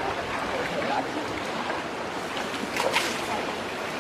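Steady rushing water with distant chatter of voices, and a brief splash about three seconds in.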